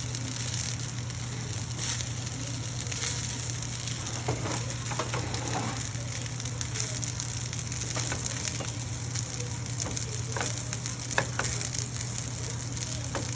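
Garlic fried rice sizzling steadily in a hot pan as it is stirred, with a few short scrapes of the stirring utensil against the pan.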